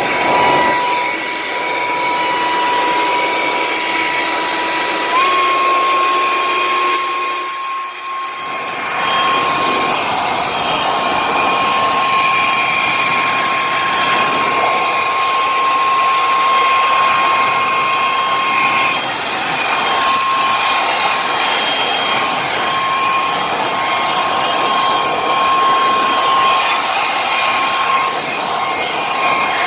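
Makita blower running steadily with a high whine, blowing water off a truck. Its pitch steps up slightly about five seconds in, and its sound dips briefly a few seconds later.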